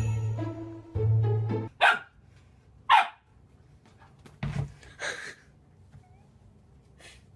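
String music that stops about a second and a half in, followed by a dog barking: five single barks spaced one to two seconds apart, the loudest about three seconds in.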